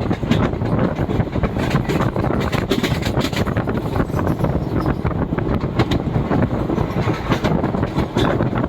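Express passenger train running through the station at speed without stopping, its coaches rumbling past with a rapid, irregular clatter of wheels over the rails.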